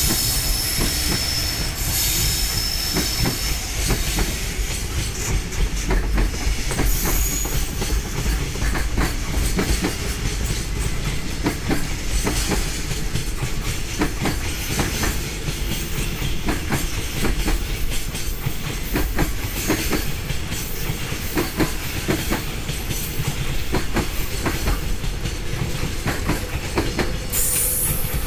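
Freight train rolling past as it pulls away, its wagon wheels clacking over rail joints with a steady low rumble, and a brief high wheel squeal in the first few seconds.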